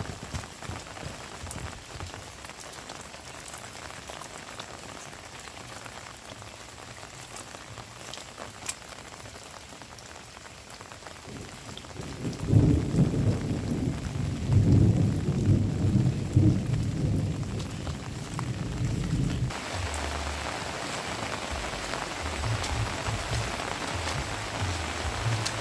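Heavy rain falling steadily. About halfway through, a loud low rumble of thunder rolls for several seconds. It ends abruptly, and the rain then sounds brighter and more hissing.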